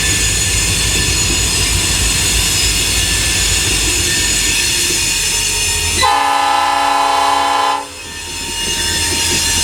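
Freight train rolling past on the rails, a steady loud rumble with faint high wheel squeal. About six seconds in, a locomotive air horn gives one blast of about two seconds, then the rolling train noise comes back.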